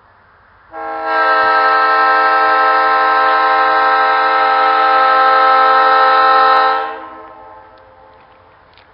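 Train horn sounding one long, steady blast of several notes together, starting about a second in and fading away after about six seconds.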